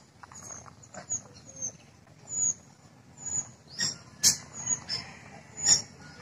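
A string of short, high chirps from a small bird, about ten of them, repeating irregularly every half second or so. A single sharp click sounds about four seconds in.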